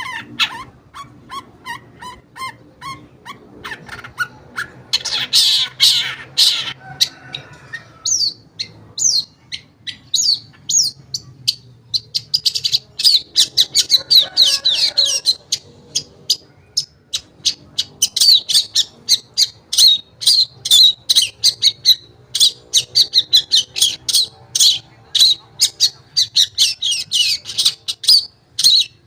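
Long-tailed shrike (cendet) singing a fast, varied song of rapid chattering high notes, broken by harsh, scratchy passages about five seconds in and again around fourteen seconds.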